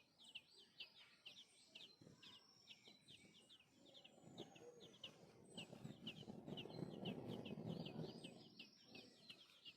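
Nestling birds chirping to beg for food: a steady run of short, high chirps, several a second, kept up throughout. A low, noisy rustle swells under them in the middle and fades near the end.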